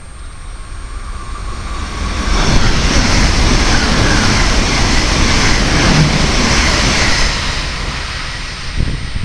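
An ICE 3 high-speed electric train passing close by at speed. A rushing noise of wheels and air builds up, stays loud for about five seconds, then fades as the train draws away.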